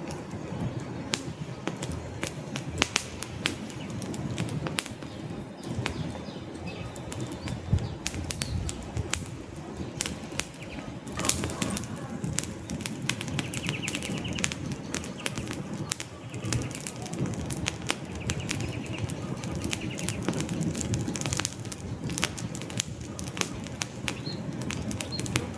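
Wood fire burning in a fireplace: logs crackling with frequent sharp, irregular pops over a steady low rumble of flames.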